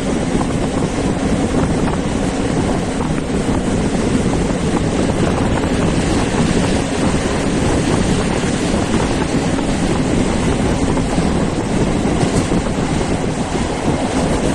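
Moving passenger train heard from its carriage window: a steady rumble of the wheels on the track, mixed with wind rushing past the microphone.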